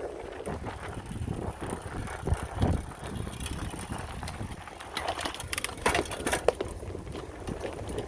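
Mountain bike riding over a rough dirt trail: tyre noise and the bike rattling over bumps, with a couple of low thumps about two and a half seconds in and a run of sharp clacks between about five and six and a half seconds.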